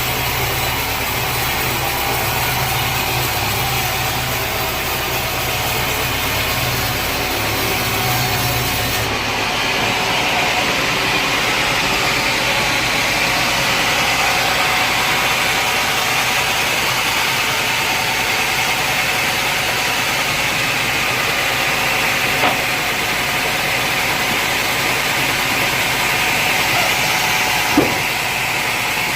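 Sawmill machinery running steadily, with an engine-like hum. About nine seconds in, the low hum drops away and a steady whir carries on, with two small knocks in the last third.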